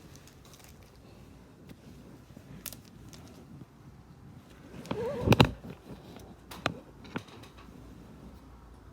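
Trading cards and wrappers handled on a tabletop: faint shuffling with a few sharp clicks, and a brief louder sound with a bending pitch about five seconds in.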